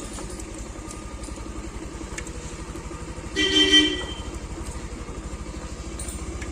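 Bajaj Pulsar motorcycle's single-cylinder engine running steadily at low speed. A horn sounds once, briefly, about three and a half seconds in.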